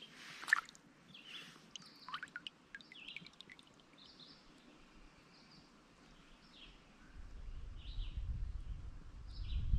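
Small birds chirping in short, scattered notes over a quiet creek, with a brief splash of water about half a second in as a small trout is handled at the surface. A low rumble builds from about seven seconds in.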